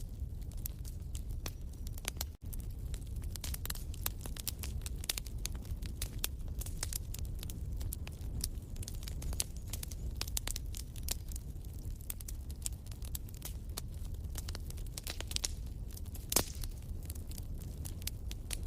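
Wood fire in a fireplace crackling steadily, with many irregular snaps over a low rumble and one louder pop near the end.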